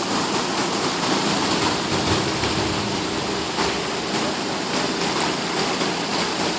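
Floodwater rushing in a swollen creek: a loud, steady roar of fast, high water.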